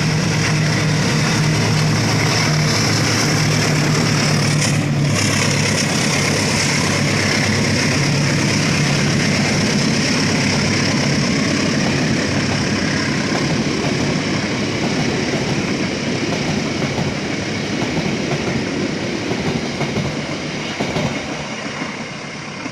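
Diesel-hauled train passing close by: the locomotive's engine hum is strongest in the first few seconds, then the cars roll past with a steady rumble that grows fainter near the end.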